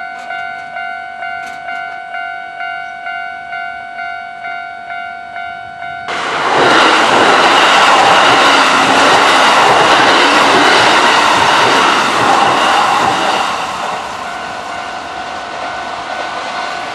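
Japanese level-crossing alarm ringing its repeating kan-kan, nearly two strikes a second. About six seconds in, a Kintetsu 30000 series Vista Car express train suddenly arrives and passes at speed, loud enough to bury the bell, and eases off a little near the end.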